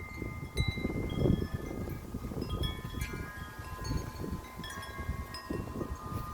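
Metal wind chimes ringing in strong gusty wind, many tubes struck one after another so their tones overlap and sustain. Wind buffets the microphone with a gusting rumble underneath.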